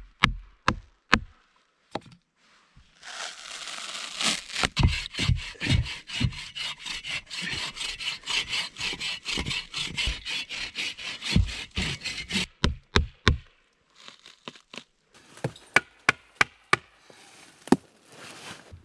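Hand saw cutting through wood in a quick, even run of strokes, about four to five a second, lasting about nine seconds. A few sharp knocks on wood come at the start, and another run of knocks near the end.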